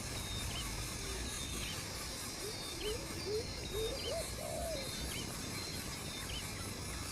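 Bird calls: a run of short rising calls, ending in one longer arched call, over a faint high chirp that repeats about twice a second.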